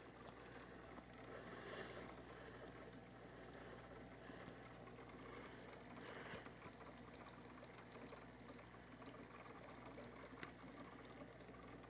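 Near silence: faint room tone with a steady low hum and a few soft clicks, one a little sharper near the end.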